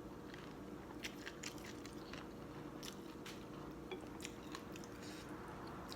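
A person chewing a mouthful of noodles close to the microphone: soft, wet mouth clicks and smacks at irregular intervals, over a faint steady hum.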